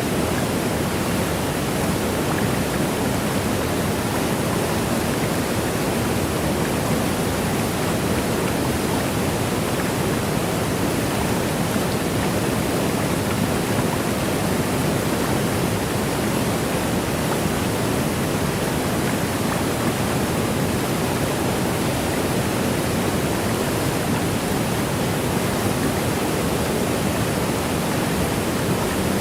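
Waterfall: the steady, unbroken rush of water falling.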